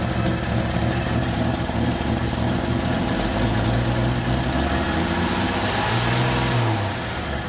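Chevrolet 292 inline-six engine in a 1965 Chevy pickup idling steadily on five-year-old gasoline. It runs evenly, and the owner says it "don't sound bad" for gas that old.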